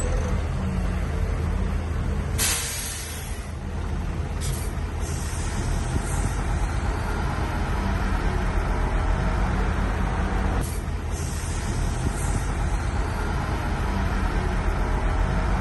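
Heavy diesel earthmoving machinery running steadily with a low rumble. Sharp bursts of high hiss come in about two seconds in, again near four and a half seconds, and twice more around eleven to twelve seconds.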